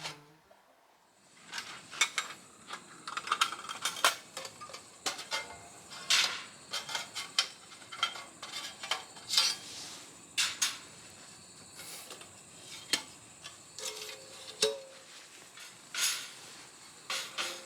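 Light metal clinks and clatters, many short irregular strikes of metal pieces being handled against each other.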